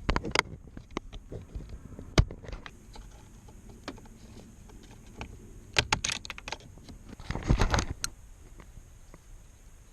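Scattered clicks and light rattles of tools and small parts being handled: one sharp click about two seconds in, then quick clusters of clicks around six and seven and a half seconds.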